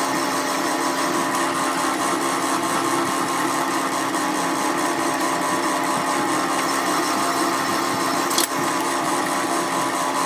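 A workshop machine running steadily with a constant hum, with one sharp click a little after eight seconds in.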